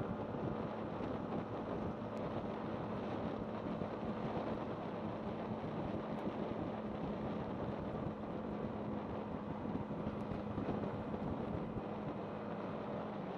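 Yamaha MT-15's single-cylinder engine running at a steady speed under way, with wind on the microphone; the engine note drops slightly right at the end.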